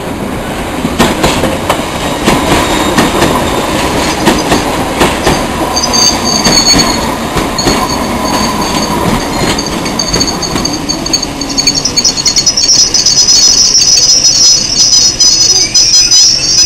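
District line D78 stock underground train running into the platform, its wheels clicking over rail joints. A high-pitched wheel and brake squeal sets in about six seconds in and grows loudest near the end.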